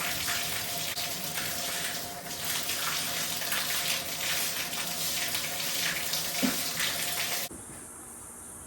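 Water running hard at full flow, a steady rush that cuts off abruptly about seven and a half seconds in.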